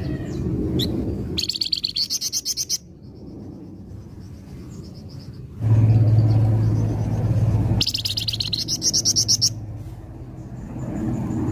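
Songbird of the kind called 'flamboyan' in Indonesian bird-keeping singing in full voice: two rapid, buzzy high trills about a second and a half long each, one near the start and one past the middle, with thinner high notes between them. A steady low hum comes in midway over a low rumble and lasts about two seconds.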